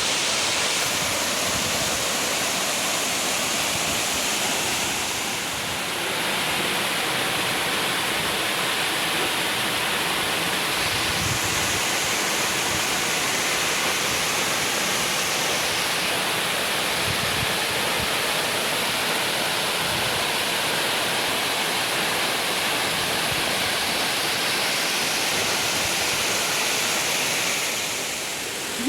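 Waterfall pouring into a pool: a loud, steady rush of falling water, dipping slightly about five seconds in and again near the end.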